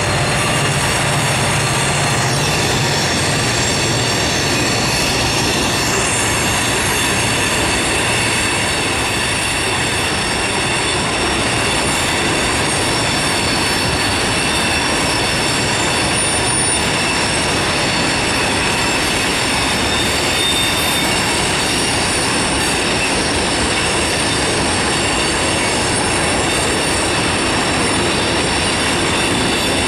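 Freight train cars rolling by, their steel wheels squealing steadily against the rails over a continuous rumble. A low drone fades away over the first few seconds.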